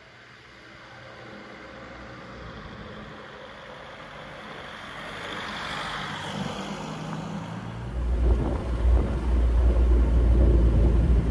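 Jeep TJ Wrangler with a swapped Volkswagen 1.9 TDI diesel driving on the road: engine and road noise grow steadily louder, and a heavy low rumble comes in about eight seconds in.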